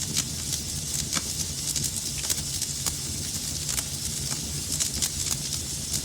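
Wood fire burning in a fireplace: a steady low rumble and hiss with irregular sharp crackles and pops, several a second.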